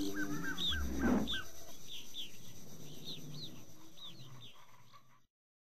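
Birds chirping in short, repeated calls, with a low thump about a second in. The chirping fades out and stops about five seconds in.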